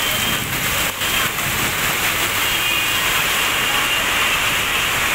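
Heavy rain pouring down on a waterlogged road as a steady hiss, with vehicles driving through the standing water.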